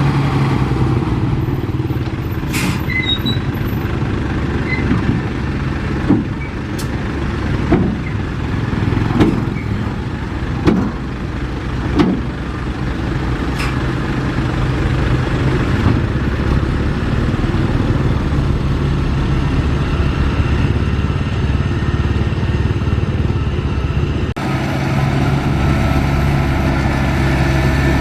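Heavy diesel earthmoving machinery running steadily, with a handful of sharp clanks or knocks between about six and twelve seconds in. The sound changes abruptly a few seconds before the end.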